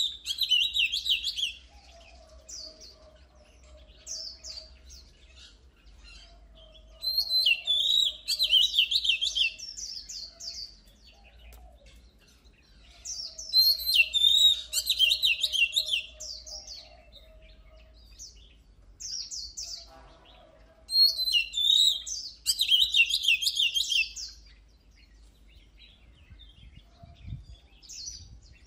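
Oriental magpie-robin singing: loud bursts of rapid, varied whistled phrases that come about every seven seconds, with quiet gaps between them. A faint, thin, steady whistle sounds in some of the gaps.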